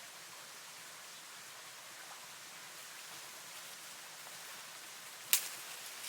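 Steady faint hiss of outdoor ambience, broken once near the end by a single sharp crack or snap.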